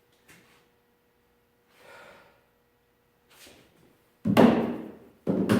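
Two loud heavy thuds about a second apart near the end, each dying away quickly, after a few faint knocks and rustles.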